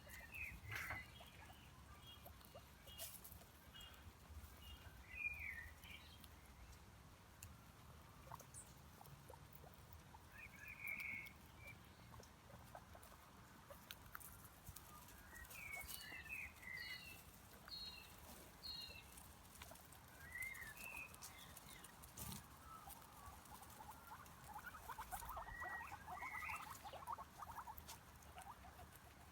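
Faint, scattered high-pitched squeaks from a small animal, some short and falling in pitch, some in quick runs, with a spell of light rapid pattering near the end.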